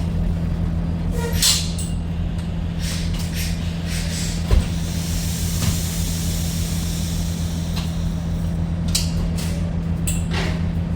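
Truck engine running with a steady low drone, with a few light knocks and clicks and a hiss in the middle.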